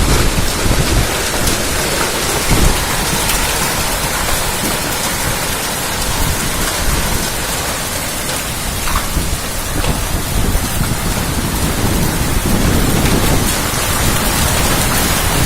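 Hail and heavy rain pelting down: a dense, steady hiss with scattered sharp ticks of hailstones striking.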